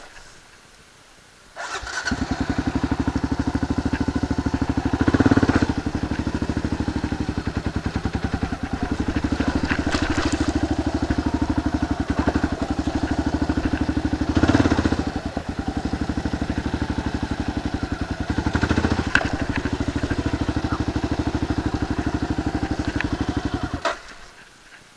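Kawasaki KLR 650's single-cylinder engine running steadily at low speed with an even pulse, with a few brief swells in level. The sound comes in abruptly a second or two in and cuts off near the end.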